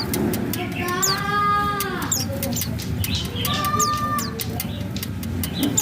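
White-eyes (pleci) in an aviary giving short, high chirps that slide downward, repeated several times. A longer, lower call comes about a second in and a shorter one near four seconds, over a steady background hum.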